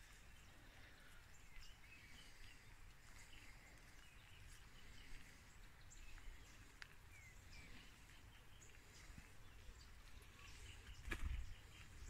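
Faint birdsong: scattered short chirps and calls from several birds over a low, steady background rumble, with a single thump a little before the end.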